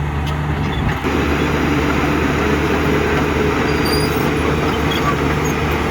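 Heavy diesel engine of construction machinery running steadily under load. Its low, even note changes abruptly about a second in.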